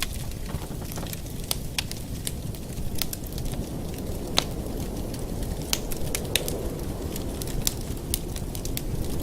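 Wood fire in a fireplace crackling, with irregular sharp pops over a steady low rumble; one louder pop about halfway through.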